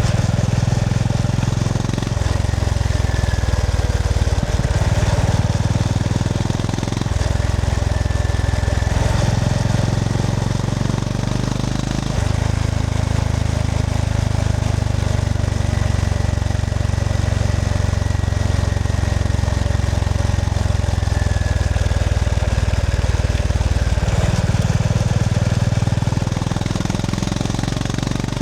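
Honda GB350S motorcycle's air-cooled single-cylinder engine running while riding, its low note stepping up and down several times.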